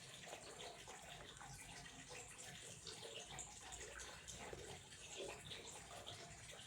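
Faint running water splashing and trickling in an irregular patter.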